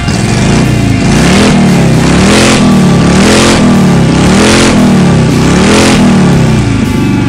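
Motorcycle engine revving sound effect, its pitch rising and falling about six times in a row, with a rush of exhaust noise at each peak.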